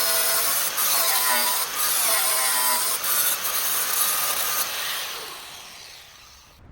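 A power tool running on metal: a steady hiss with a wavering whine, fading away near the end.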